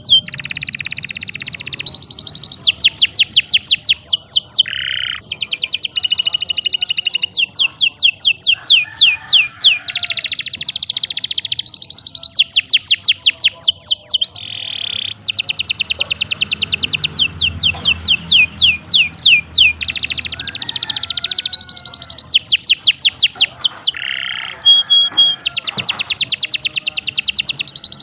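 Domestic canary singing a long continuous song of fast rolling trills, each made of rapidly repeated downward-sweeping high notes. The trills change in pitch and speed from phrase to phrase, with short breaks about five, fifteen and twenty-four seconds in.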